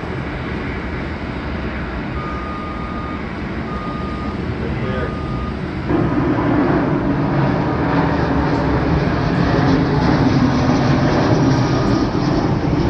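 Steady jet aircraft engine noise from airliners on the airfield, stepping up sharply about six seconds in and staying loud. Three short, even high beeps come a little after two seconds in.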